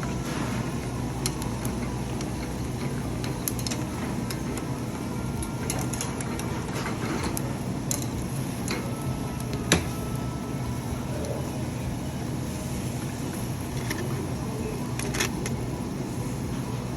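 Steady low rumble of restaurant background noise with scattered clinks and taps of tableware while seafood is eaten, and one sharper knock about ten seconds in.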